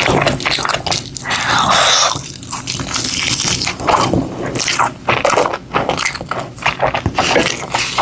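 A person eating: biting and chewing with crunchy, crackling mouth sounds.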